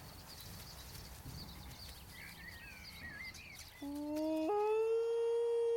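A man imitating a wolf howl to call wolves, starting about two thirds of the way in as one long howl that jumps up in pitch after half a second and then holds steady. Faint birds chirp before it.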